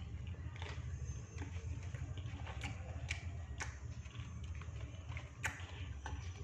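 Close-up eating sounds: a person chewing batagor, with scattered soft clicks and crunches at irregular times over a steady low hum.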